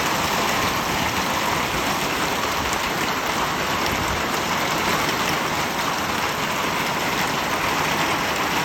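Small hailstones coming down in a heavy, steady shower, a dense hiss of countless small strikes.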